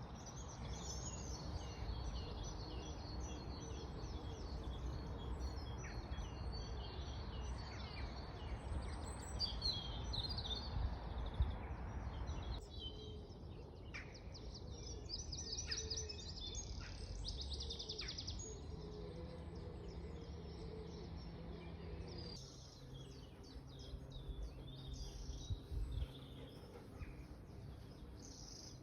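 Wild songbirds singing, with chirps and phrases overlapping and a fast rattling trill about two-thirds of the way through. A steady rushing background fills the first half, and the background sound changes abruptly twice where recordings are joined.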